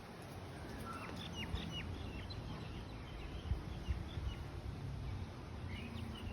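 Birds calling faintly, a few short high chirps, some falling in pitch, over a steady low rumble.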